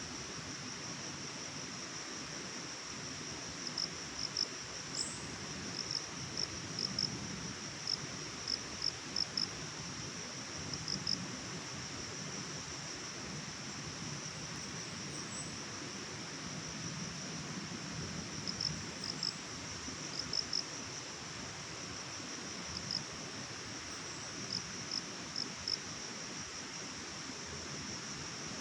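Insects chirping in a forest: a continuous high trill, with clusters of short chirps coming and going, over a steady background hiss.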